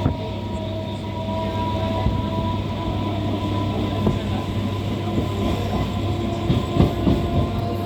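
MMTS suburban electric multiple-unit train running along the track: a steady rumble with thin high tones held over it. A few short rail-joint knocks come near the end.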